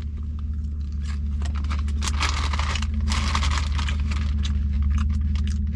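Crinkling and crackling of a Doritos chip bag as food is dug out of it, with two denser bursts of rustling in the middle, over a steady low hum.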